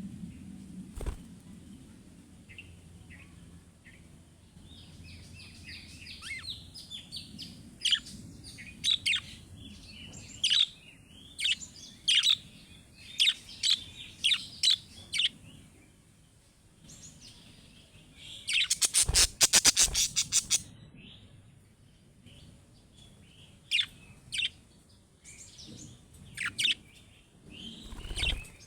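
Budgerigars chirping and chattering in short, high-pitched notes. Past the middle comes the loudest part, a rapid run of sharp clicking notes lasting about two seconds.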